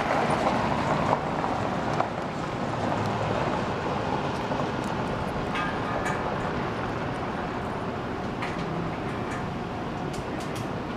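Maintenance-of-way pickup truck rolling past: a steady rumble that slowly fades, with a few light clicks.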